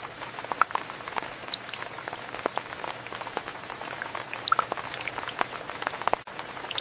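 Rain falling steadily, with many separate drops pattering and ticking at irregular moments over a constant hiss. The sound cuts out for an instant about six seconds in.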